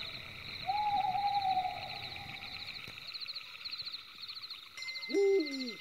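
Night ambience of crickets chirping in steady repeated pulses. About a second in, a long held tone sounds for about two seconds, sagging slightly in pitch. Near the end comes a short creak that rises, holds and falls away.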